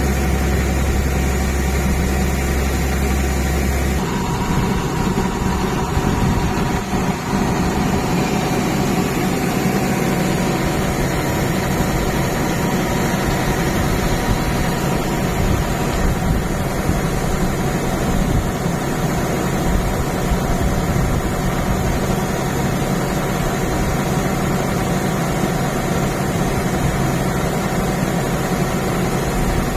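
Massey Ferguson 241 tractor's three-cylinder diesel engine running steadily under load. About four seconds in, a steady low hum drops away and the engine sound continues with a rougher, uneven rumble.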